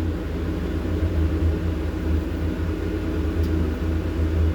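Diesel engine of a log-loading excavator running steadily at a constant speed, a low drone heard from inside the cab.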